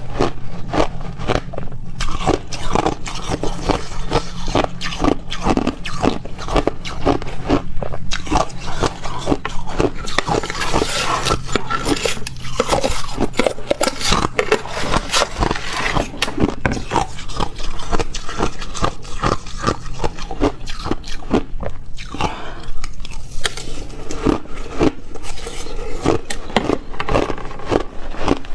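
A person biting and chewing ice: a dense, rapid run of crunches that goes on without a break.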